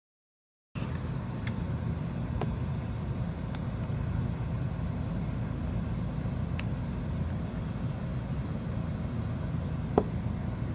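Steady low mechanical hum that starts abruptly just under a second in, with a few light sharp clicks of small tools against the phone and one louder click near the end.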